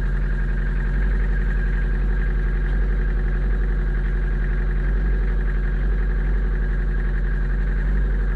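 Toyota Hiace engine idling steadily, running just after a decoking (carbon-cleaning) treatment of the pistons and rings.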